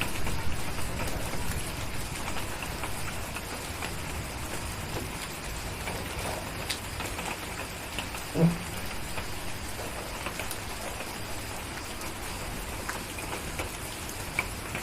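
Steady rain falling, with scattered small ticks and pops through it. A low rumble, the tail of distant thunder, dies away over the first second or two, and a single short low thump sounds a little past the middle.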